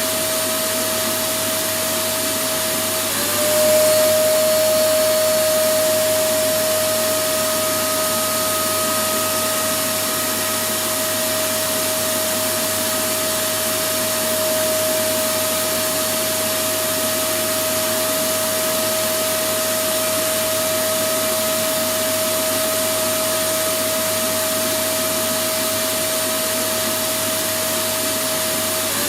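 Electric vacuum cleaner running steadily: a constant rush of air with a steady motor whine. About three seconds in, the whine briefly dips in pitch and the sound gets a little louder before settling again.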